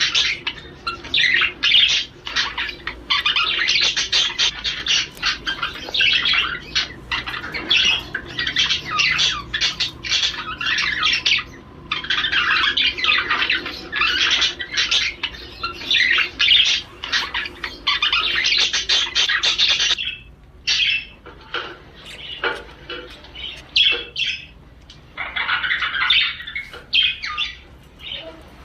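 Male budgerigar warbling and chattering in a fast, dense stream of chirps and squawks, the courtship warble of a male in breeding condition. About two-thirds of the way through it thins out into scattered, quieter chirps.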